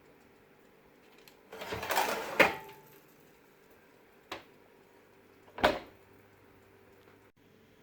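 Kitchen handling sounds: a short clatter of items being moved, ending in a sharp knock, then a single click and another knock, over quiet room tone.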